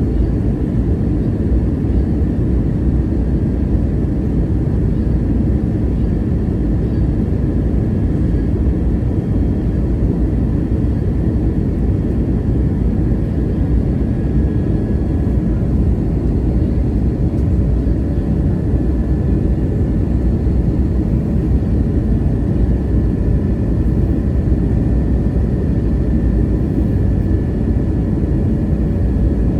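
Airbus A321neo cabin noise: a steady, loud low rumble of engines and airflow, with a faint steady high whine above it.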